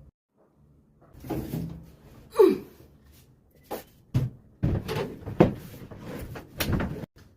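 A series of knocks and bumps as a microwave oven is lifted and set into place on its mount; the loudest knocks come about two and a half and five and a half seconds in.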